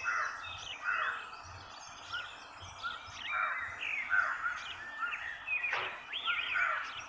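Birds chirping and calling in short, overlapping phrases, with quick rising and falling notes throughout.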